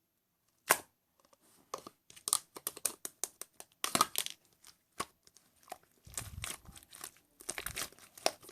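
Crinkly material being crumpled and torn close to the microphone: a sharp click about a second in, then irregular crackling and rustling.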